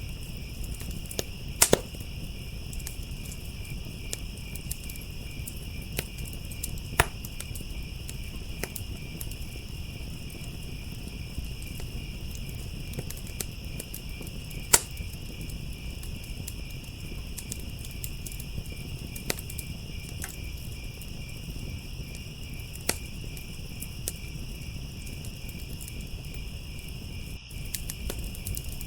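Crickets chirping in a steady, pulsing chorus over a wood fire crackling, with a handful of sharp pops, the loudest about fifteen seconds in. The sound cuts out for an instant near the end.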